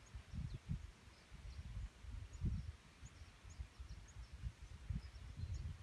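Faint short bird chirps, scattered and distant, over an irregular low rumble.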